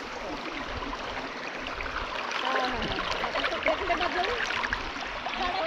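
Stream water rushing and gurgling steadily over rocks.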